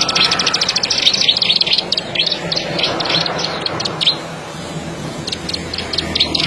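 Plain prinia (ciblek sawah) singing a rapid, buzzy trill of fast clicking notes. The trill breaks into bursts and eases off about four seconds in, then resumes near the end, over a faint low hum.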